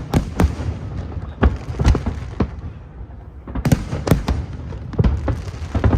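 Fireworks show: aerial shells bursting in quick irregular volleys of sharp bangs and cracks over a continuous low rumble.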